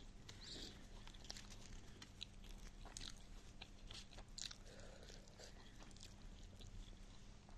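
Faint close-up eating sounds: a person chewing soft potato and egg bhujia, with scattered short wet mouth clicks and smacks.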